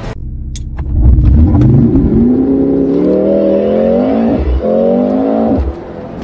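Car engine accelerating hard, its pitch climbing steadily, with a brief break and drop a little over four seconds in as it shifts up a gear, then climbing again before it lets off near the end.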